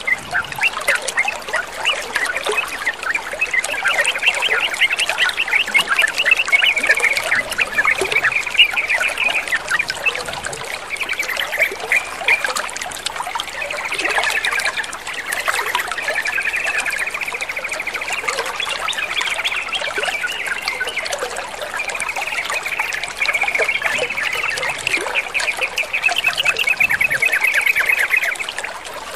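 Water trickling steadily under a bird's rapid chattering calls and trills, those of a sooty-headed bulbul, which keep going almost without pause.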